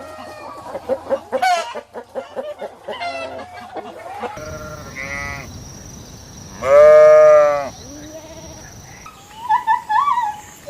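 Farm animal calls joined clip after clip: a run of short chicken clucks, then one loud goat bleat lasting about a second, followed by a few short high calls near the end.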